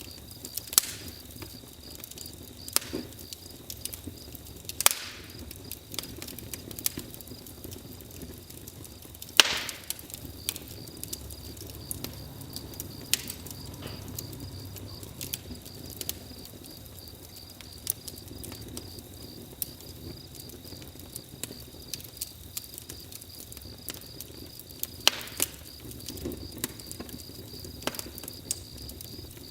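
Campfire crackling, with a dozen or so sharp pops scattered irregularly, over crickets chirping steadily.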